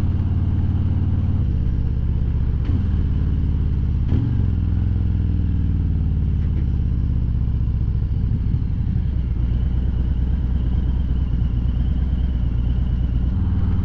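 Harley-Davidson Milwaukee-Eight V-twin running through Vance and Hines Eliminator 400 slip-on mufflers while riding, with a throaty but not very loud exhaust note. The engine note changes in steps a few times in the first four seconds and once more near the end, as the bike shifts and changes speed.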